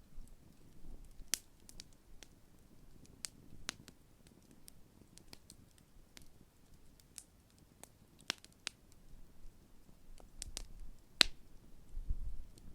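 Large wood campfire crackling: irregular sharp pops and snaps, with one louder pop about eleven seconds in and a low rumble near the end.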